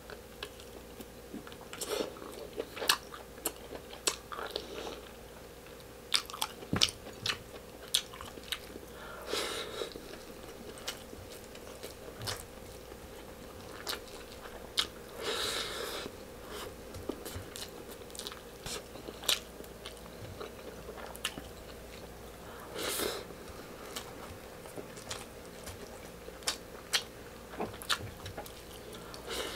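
Close-miked chewing of a mouthful of kaldereta meat and rice, eaten by hand, with many short sharp mouth clicks and a few longer smacking bursts. A faint steady hum runs underneath.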